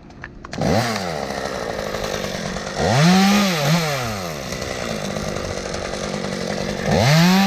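Gas chainsaw running, coming in about half a second in and revved up hard twice, about three and seven seconds in, with steadier lower running in between.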